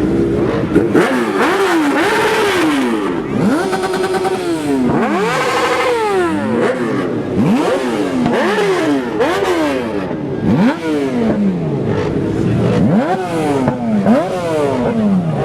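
Engines revved over and over, the pitch climbing and dropping back roughly once a second, with more than one engine revving at the same time.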